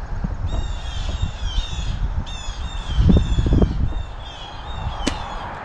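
A bird calling in quick runs of short notes, each dropping slightly in pitch, over a low rumble. A heavy low bump comes about three seconds in, and a sharp click near the end.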